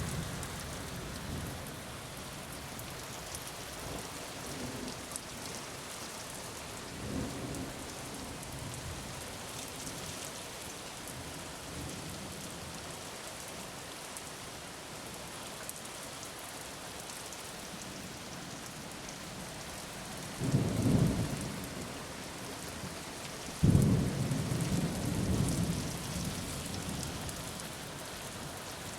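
Steady rain falling, with thunder rumbling. Faint rolls come early on, a loud rumble comes about two-thirds of the way through, and a sudden, louder clap follows a few seconds later and rolls on for about three seconds.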